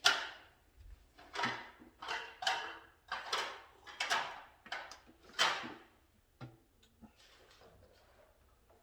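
Hand work on panel wiring: a run of about eight short scraping strokes, roughly one every half second to second, from tools and wire being handled. It goes quieter from about six seconds in, with only a few faint ticks.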